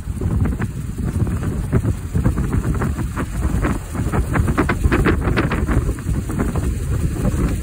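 Engine of a 1933 Ford cabriolet hot rod running as the car drives, with wind rumbling on the microphone.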